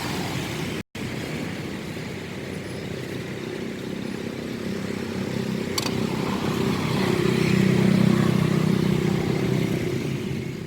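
Road traffic going past: a motor vehicle's engine hum swells, loudest about eight seconds in, then fades. The sound cuts out for a moment about a second in.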